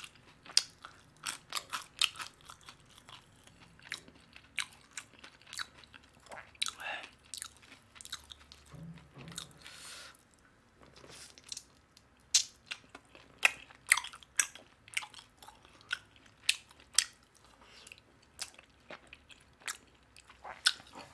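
Close-miked chewing of Korean fried chicken: irregular crisp crunches and wet mouth clicks, sometimes several a second, with a short quieter pause partway through.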